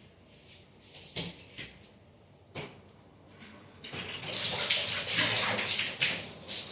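A couple of sharp knocks, then about four seconds in a loud rush of running, splashing water that lasts about three seconds.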